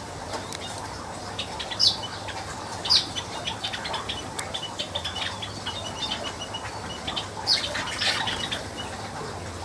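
Manyar weaver birds chattering: quick runs of soft ticking chirps, with louder sharp calls about two and three seconds in and again near the end, and wing flutters among them.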